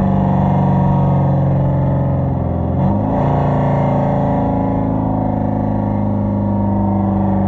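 Straight-piped Hyundai Genesis 5.0 V8 exhaust (no catalytic converters, Flowmaster Super 10 mufflers) droning steadily while driving. Its note briefly dips and shifts in pitch about three seconds in, then settles again.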